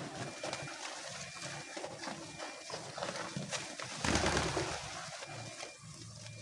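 Homing pigeons cooing in low, repeated phrases, with a short burst of loud rushing noise about four seconds in.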